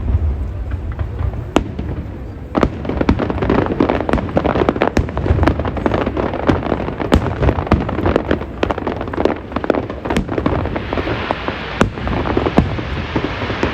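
Aerial fireworks going off: a deep boom at the start, then a dense run of crackling pops and bangs. Near the end it turns into a steady hissing crackle.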